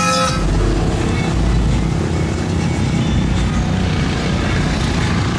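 Mud truck engine running loud with a deep rumble; guitar music cuts off just as it begins.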